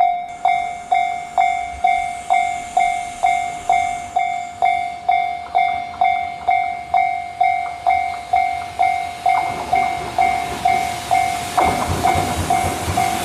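Japanese level-crossing warning bell ringing its repeated electronic 'kan-kan' tone, about two strikes a second. From about ten seconds in, the noise of an approaching freight train rises under it and grows louder near the end.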